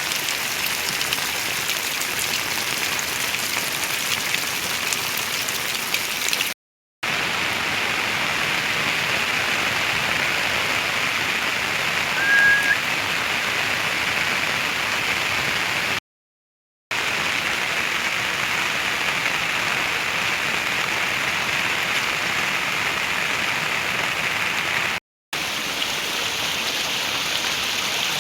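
Heavy rain falling as a steady hiss, broken by three short moments of silence. A brief high chirp sounds about halfway through.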